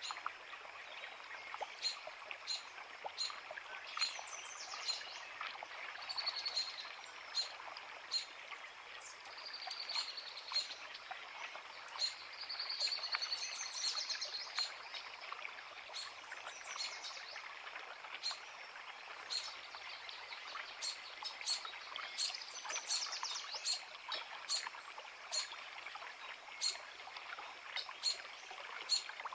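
A forest creek running steadily, with birds singing over it: short high chirps repeating every second or so and several longer warbling trills.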